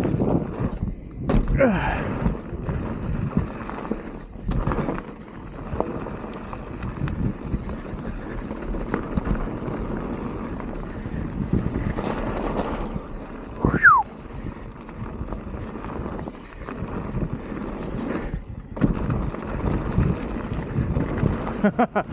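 Mountain bike rolling down a rough dirt trail: tyres over dirt and roots with the bike rattling, and wind over the microphone. A short falling squeal comes about two-thirds of the way through.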